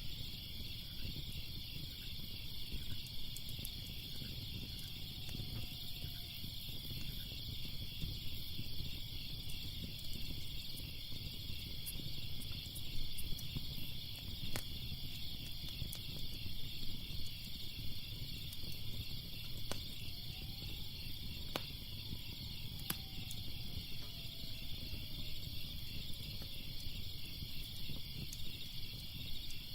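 Crackling fire with a steady, pulsing chorus of crickets over it, and a few sharp pops now and then.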